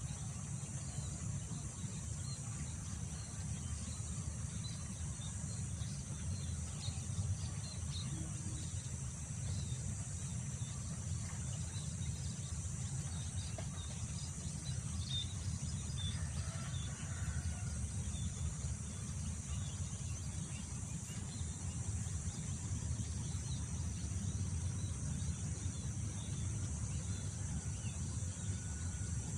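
Steady wind rumble on the microphone, with a constant high-pitched drone of insects and scattered faint bird chirps.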